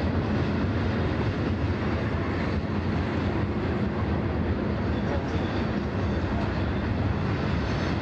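Freight train of loaded coal cars rolling past: a steady, even noise of wheels on rails and moving cars, mostly low in pitch.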